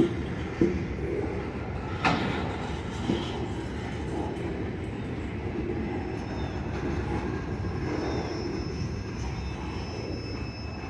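Freight cars of a mixed manifest train, gondolas and then an enclosed autorack, rolling past a grade crossing with a steady rumble. There are a few sharp clanks in the first three seconds, and the sound eases off slightly near the end as the last car goes by.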